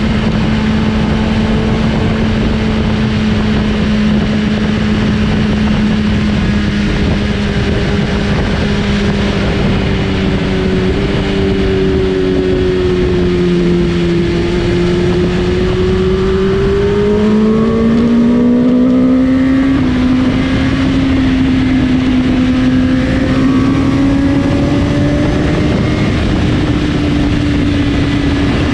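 Superbike engines at highway speed under a steady rush of wind and road noise. The main engine note holds steady, sags a little about halfway, then climbs and holds higher, with other bikes' notes gliding past near the climb.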